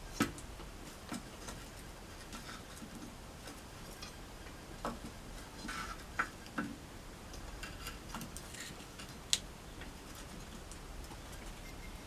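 Wood campfire crackling, with irregular sharp pops and snaps; the loudest come just after the start and about nine seconds in.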